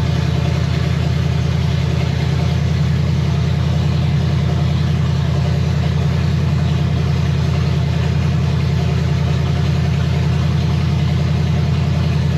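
Chevy 327 cubic-inch small-block V8 idling steadily on its first runs after the build, warmed up to about 180 degrees with 30 pounds of oil pressure.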